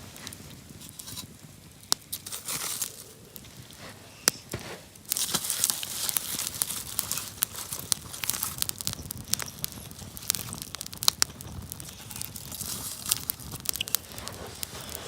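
Campfire burning, crackling with many sharp pops. About five seconds in, a louder steady hiss joins the crackle.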